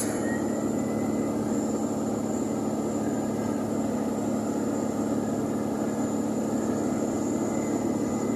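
Steady drone of a vehicle driving along a highway, heard from inside the cabin: engine and road noise with a low hum and a faint high whine, unchanging throughout.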